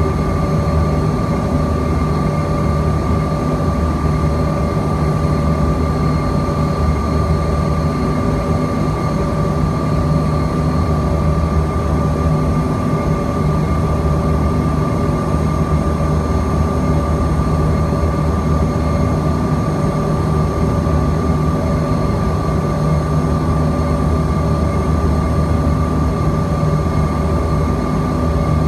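Cabin noise of a Bombardier CRJ-200ER in flight: the steady drone of its rear-mounted General Electric CF34 turbofans and airflow, with a constant high whine from the engines over a deep rumble.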